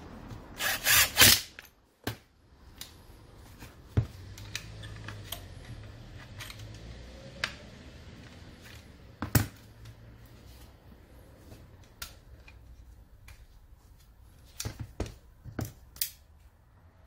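Hand tools and metal grinder parts being handled during repair: a brief loud clatter of several sharp knocks about a second in, then scattered clicks and taps.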